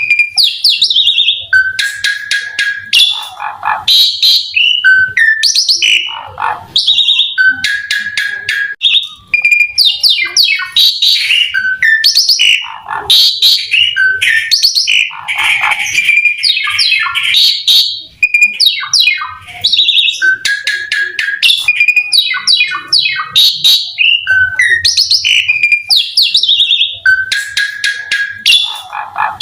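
Asian pied starling (jalak suren) singing loudly and without pause: a run of clear whistles, harsh notes and rapid rattling trills, the same phrases coming back every few seconds.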